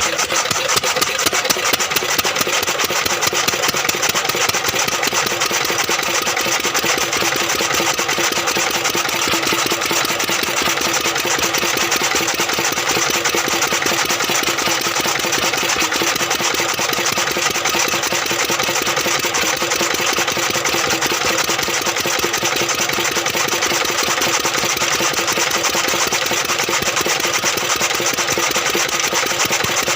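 A 10-horsepower engine running steadily at an even speed, with a fast, regular firing beat.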